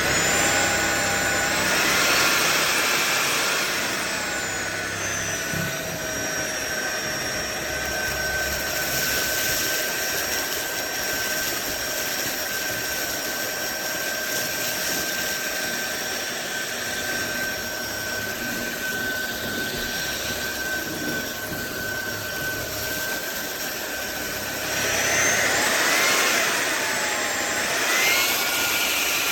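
SunSare X7A 550 W cordless stick vacuum running with a steady high motor whine. Its pitch shifts down and back up for a few seconds near the end.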